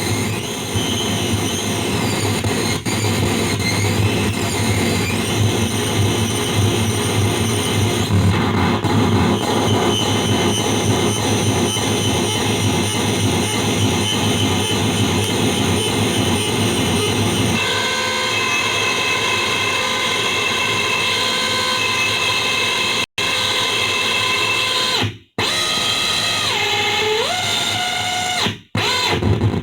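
Home-built PT2399 noise delay effect putting out a dense, noisy drone with steady whistling tones over a low hum. The texture changes about two-thirds of the way through. Near the end, tones shift in pitch as the settings are changed, and the sound cuts out briefly three times.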